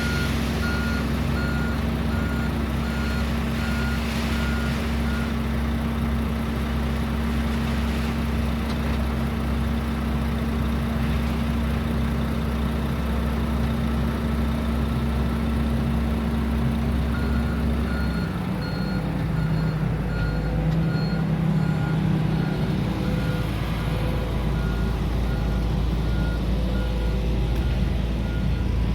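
Heavy construction machine's diesel engine running steadily, with a reversing alarm beeping about twice a second at the very start and again from a little over halfway through. The engine note shifts at about the time the beeping returns.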